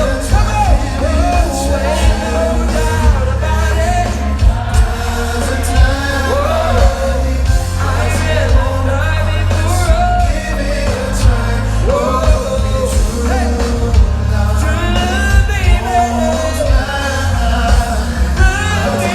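Live R&B music played loud through a hall's sound system: a singer's gliding, wordless-sounding vocal lines over a heavy bass and a steady drum beat.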